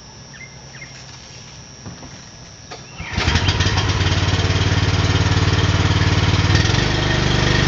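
A gasoline pressure washer's small engine fires up about three seconds in and keeps running steadily, its note shifting slightly near the end.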